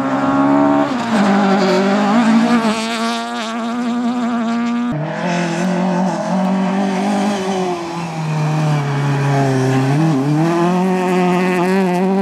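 Rally car engines at high revs, the pitch rising and falling as they accelerate, change gear and lift off. The sound changes abruptly about five seconds in, as if to another car's pass.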